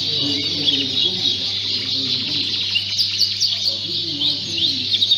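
Many Fife canaries singing and chirping together: a dense, high chorus of quick chirps and short rising trills, busiest about three to five seconds in, over a murmur of people talking.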